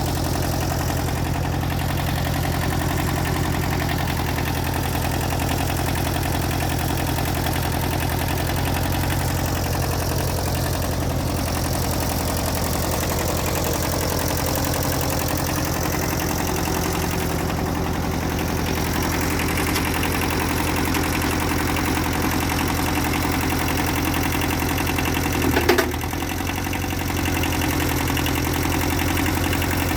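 Engine idling steadily throughout. Once, near the end, there is a short, sharp clunk.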